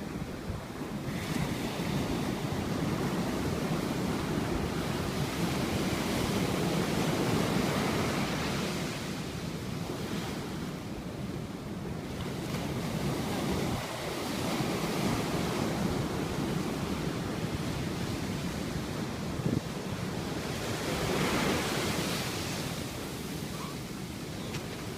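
Rough sea surf breaking on the shore: a continuous wash of surf noise that swells as waves break, loudest about a third of the way in and again near the end. Wind buffets the microphone.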